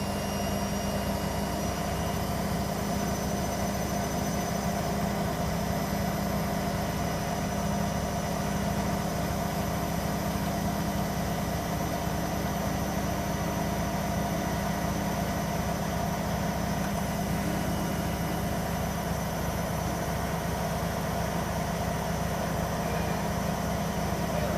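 Hoover Nextra HNWL7146 washer dryer spinning a bedding load after the wash, a steady machine hum with a thin high motor whine over it.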